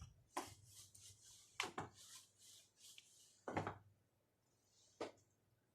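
A few faint, short clicks and soft rubbing noises, about five of them spread through a quiet pause, like small handling sounds.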